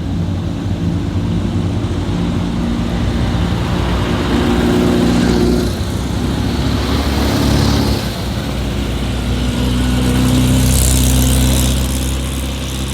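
Old cars' engines running, with the sound swelling louder several times as vehicles pass, about 5, 7.5 and 11 seconds in.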